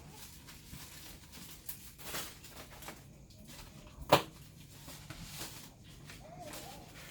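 Scattered light taps and clicks, with one sharper, louder knock about four seconds in.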